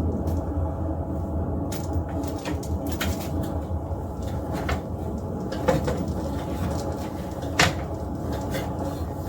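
Drill spinning dryer vent cleaning rods and brush inside the duct: a steady motor hum with scattered knocks and clicks as the rods strike the vent, the sharpest about seven and a half seconds in.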